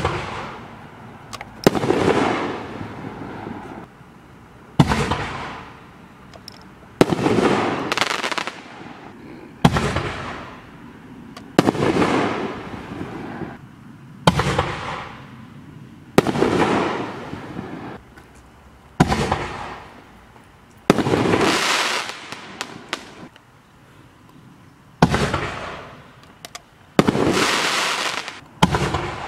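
5-inch canister shell fireworks going off one after another, about a dozen sharp bangs roughly two seconds apart. Each bang is followed by a noisy tail that fades over a second or two.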